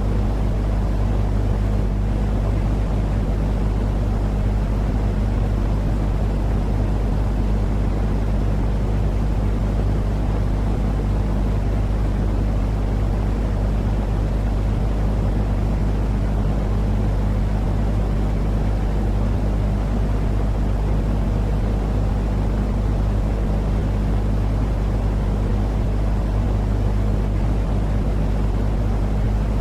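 Steady, unchanging white-noise track for lulling a baby to sleep, deep and rumbling rather than hissy, with a low hum running under it.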